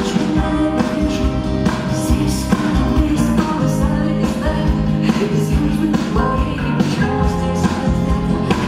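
Live rock band playing a song, with guitars and a singing voice.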